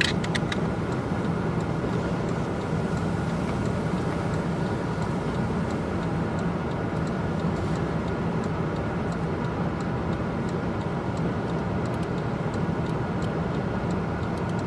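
Steady vehicle cabin noise: the engine running with a low hum, and faint scattered clicks.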